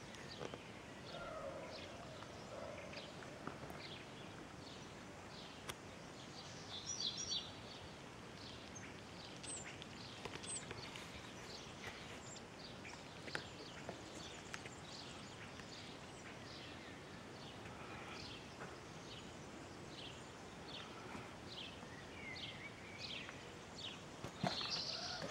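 Small birds chirping again and again in short, high calls over a steady background hiss.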